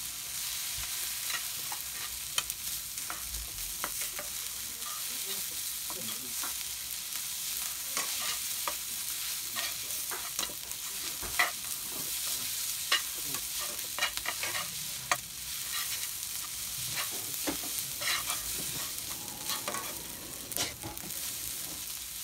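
Pork and kimchi fried rice sizzling in a wok as it is stir-fried, with a steady frying hiss and frequent irregular clicks and scrapes of a spatula against the pan.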